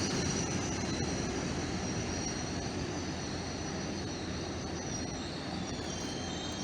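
An LNER Azuma class 801 electric train running along the platform: a steady high-pitched whine over a low rumble, slowly fading.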